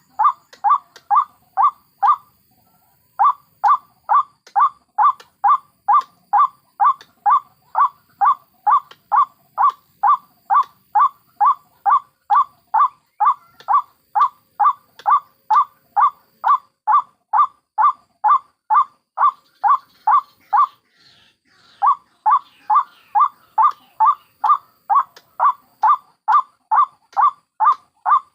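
White-breasted waterhen (ruak-ruak) calling in a steady, monotonous series of short calls, about two a second, with two brief breaks. In the second break, faint higher peeps of waterhen chicks come through.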